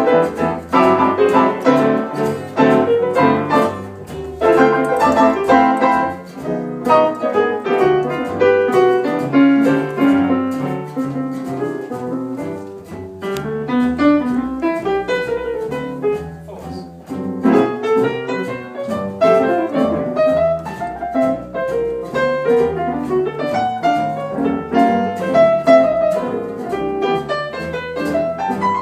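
Piano playing: a continuous stream of notes and chords, with quick running lines rising and falling.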